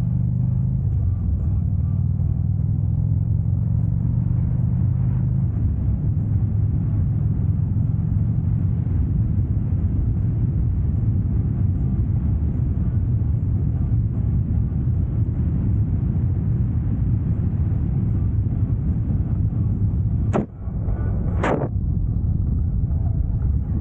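Motorcycle engine running steadily under way, over a constant noisy rush; its tone shifts about a second in and again about six seconds in. Two short sharp knocks come near the end.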